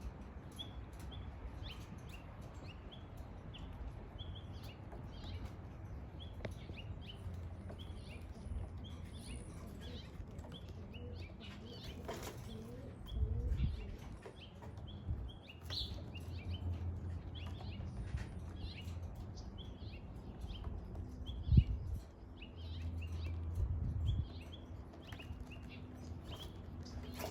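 Birds chirping in many short high notes, with young racing pigeons' wings clattering in brief flurries about halfway through and again near the end, over a low steady hum. A single sharp knock about three quarters of the way through is the loudest sound.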